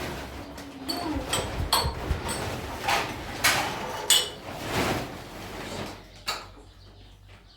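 Irregular knocks and clinks, some with a brief ringing tone, getting quieter near the end.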